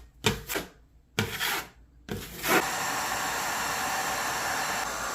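A drywall knife scraping across the patched wall in three short strokes about a second apart. Then, about two and a half seconds in, a steady even rushing noise sets in and holds at one level.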